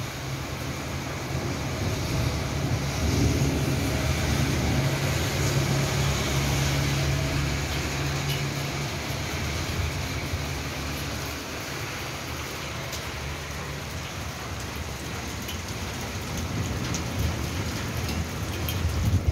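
Steady rain falling on a wet road, with a low rumble through roughly the first half that fades away.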